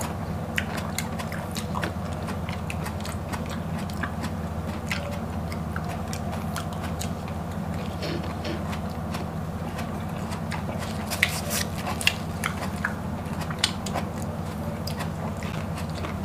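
Close-miked eating of raw green vegetables: crisp crunching bites and chewing, a scatter of short sharp crunches that come thickest about two-thirds of the way in, over a steady low hum.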